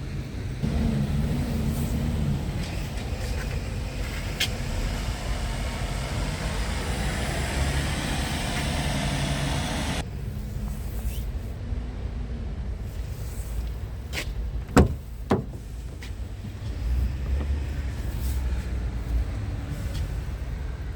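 Scania R tractor unit's diesel engine running, its pitch shifting a little. About halfway the sound changes abruptly, and around two-thirds of the way in there are two sharp knocks about half a second apart.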